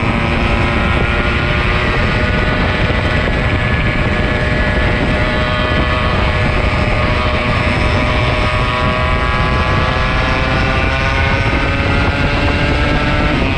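Yamaha RX-King two-stroke single-cylinder motorcycle engine running under way, its pitch rising gradually through the second half as it speeds up, with heavy wind rumble on the microphone.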